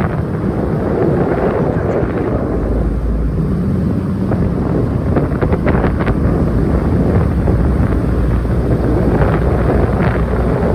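Wind buffeting the microphone over the steady low rumble of a moving car, as heard from a car on the road.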